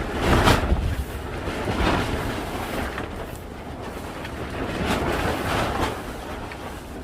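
Strong wind gusting and buffeting the microphone, a deep rumble with rushing swells every second or two.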